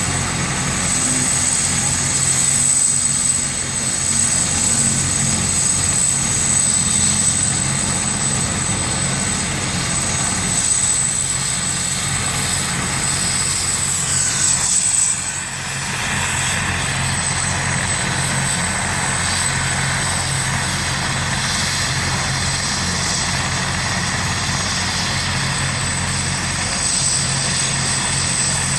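Rescue helicopter running, with a steady rotor and engine sound and a high whine throughout; the sound dips briefly about halfway through.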